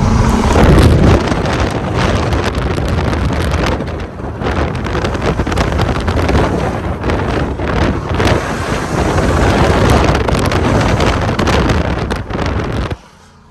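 Heavy wind buffeting on a phone microphone in a fast-moving Dodge Durango with the windows down, the SUV's loud exhaust running under it; the noise cuts off suddenly near the end.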